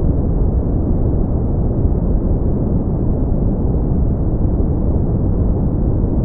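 Steady brown noise: an even, deep rushing hiss with most of its weight in the low end and little above the midrange, unchanging throughout.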